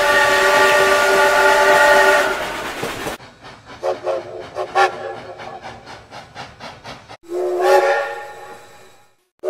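Canadian National 3254's multi-note steam whistle sounds a long chord blast that cuts off about two seconds in and trails into a hiss of steam. A few brief whistle chirps and faint clicking follow. A second blast about seven seconds in swoops up slightly in pitch as the valve opens, then dies away.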